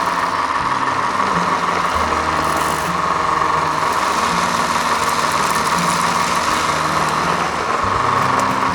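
Small electric motor of a miniature model machine running steadily, with a noisy whine around the middle of the range, over background music with a moving bass line.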